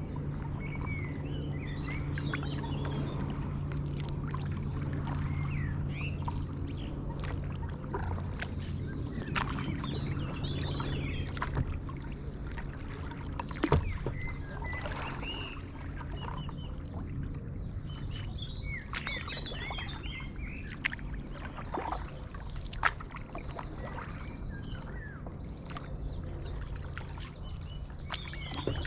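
A stand-up paddleboard's paddle dipping and pulling through canal water, with small birds chirping and singing throughout over a steady low hum. A few sharp knocks stand out, the loudest about halfway through.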